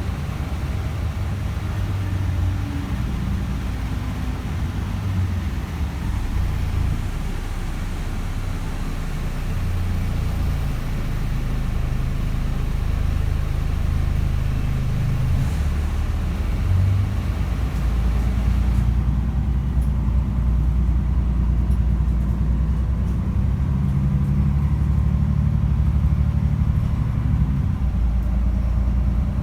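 Mercedes-Benz O405 city bus's six-cylinder diesel engine heard on board while driving, its low note shifting in steps as the bus pulls through the gears of its three-speed Voith automatic. The higher hiss drops away suddenly about two-thirds of the way in, leaving the engine's low drone a little louder.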